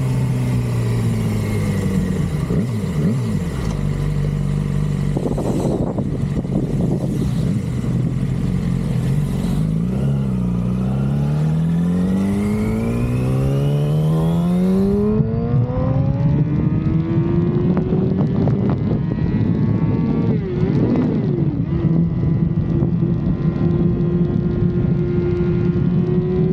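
The 2006 Yamaha R6's stock inline-four engine runs steadily at low revs, dipping briefly twice. It then climbs smoothly in pitch over several seconds and holds a high, steady note near the end.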